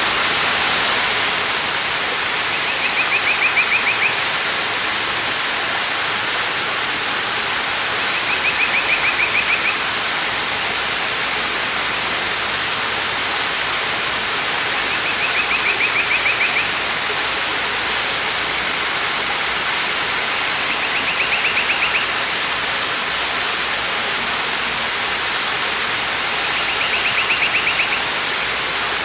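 Waterfall rushing steadily. Over it, a bird's short, high, rapid trill repeats five times, about every six seconds.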